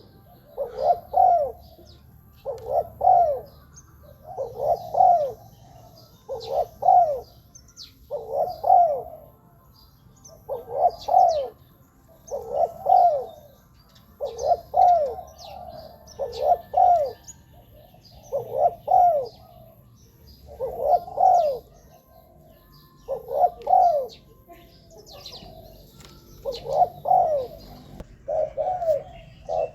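Spotted dove cooing: a short phrase of a few coos repeated about every two seconds, with faint high chirps of small birds behind it.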